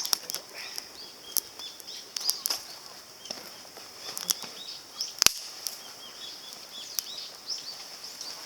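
Small wood and pine-cone fire crackling, with irregular sharp pops, one louder snap about five seconds in, over a steady high-pitched background hiss.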